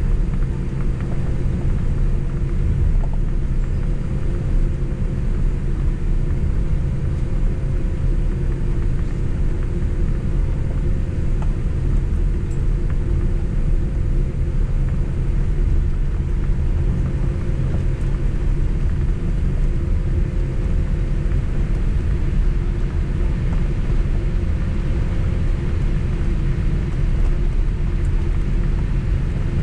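Steady low rumble inside the cabin of a Boeing 767 airliner on the ground after landing, its jet engines idling with a faint steady hum.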